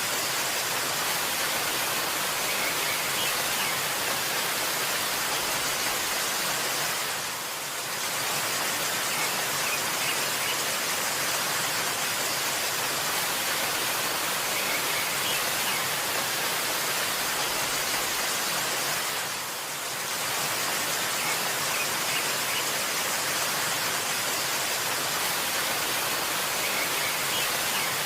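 Waterfall water rushing in a steady, even hiss, dipping briefly in level twice, about twelve seconds apart.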